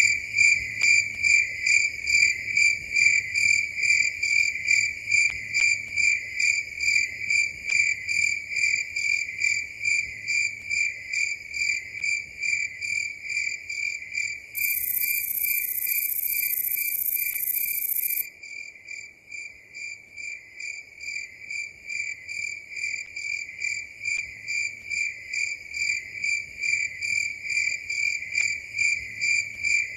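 Crickets chirping at night in a steady, even rhythm of high pulses. About halfway through, a steady high hiss comes in for a few seconds and then cuts off suddenly.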